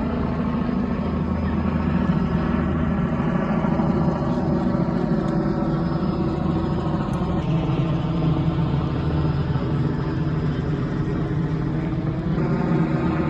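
A loud, steady engine drone holding an even pitch, with a faint hiss above it.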